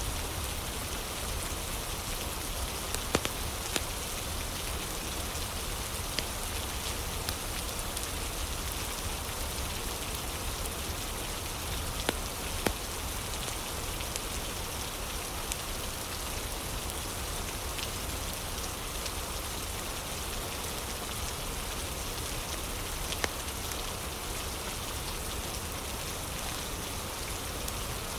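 Steady rain hissing, with occasional sharp pops from a crackling fire every few seconds.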